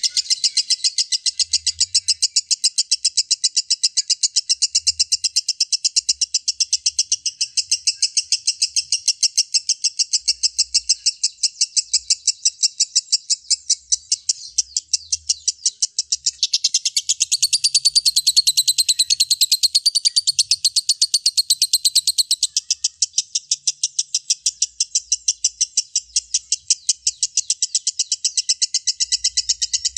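Lovebird in a long 'ngekek': a fast, unbroken run of short, high chattering notes, several a second, with no pause. From about 16 to 22 seconds in, a louder, wavering warble rides over the chatter.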